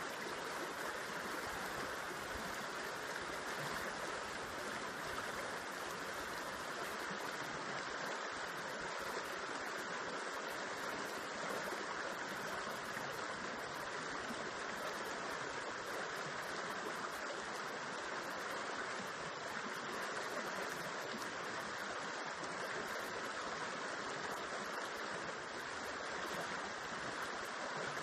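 River water flowing over rocks and spilling into a pool: a steady, even rush of water.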